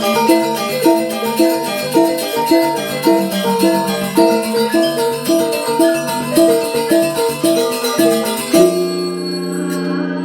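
Angklung ensemble playing a fast, repeating melodic figure of pitched notes. Near the end it stops on one final chord that is left ringing.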